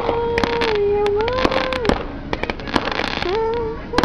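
Fireworks going off: rapid sharp pops and crackles throughout, over a steady sustained tone that holds for a couple of seconds, shifts in pitch, then glides up again near the end.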